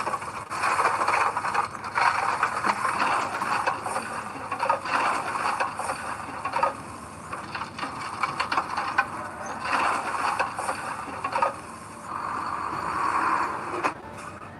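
Heavy earthmoving machinery working, with rattling, squealing and scraping that swells and eases every second or two.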